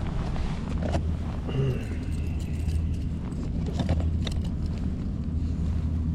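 Steady low rumble of wind on the microphone, with a few light clicks and handling noises.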